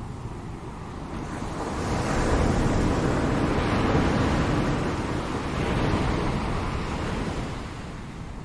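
Ocean waves: one wave swells up about a second and a half in, breaks and washes for several seconds, then draws back near the end, over a steady low rumble of surf.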